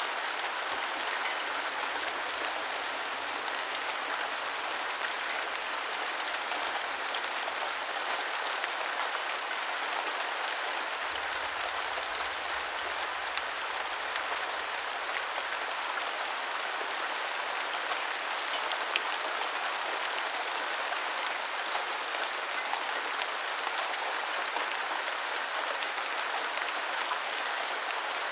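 Steady rain falling, an even hiss with many fine drop ticks and a few slightly sharper drops in the second half.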